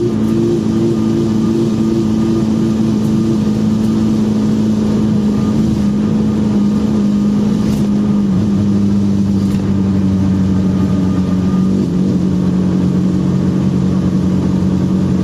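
Cabin sound of a Dajiang mini van driving on a wet road: a steady engine drone over tyre and road noise. The engine note drops slightly a little past eight seconds and again near twelve seconds.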